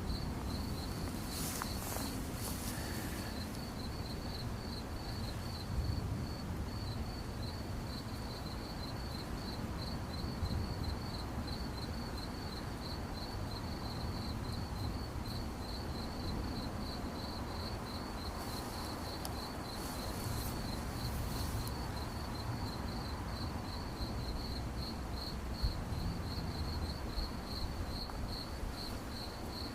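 A cricket chirping in a steady, even string of short high-pitched pulses, over a low background rumble.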